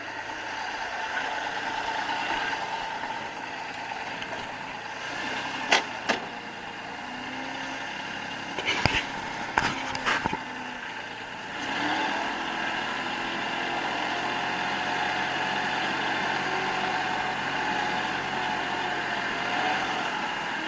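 Kubota L3560 diesel tractor engine running, with a few sharp metal clanks; about halfway through the engine picks up revs and then holds steady.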